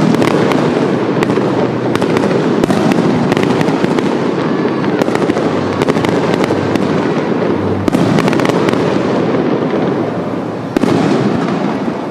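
Fireworks display: a dense, continuous barrage of shell bursts and crackling, with a fresh volley of loud bangs starting about eleven seconds in.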